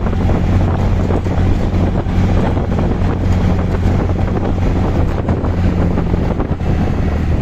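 Auto-rickshaw under way, its engine running with a steady low hum, with wind buffeting the microphone and road noise over it.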